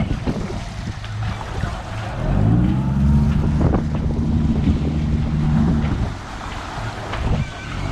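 Boat engine revved up during a mooring manoeuvre, rising briefly in pitch about two seconds in, then holding steady for about four seconds before dropping away. Strong wind is buffeting the microphone throughout.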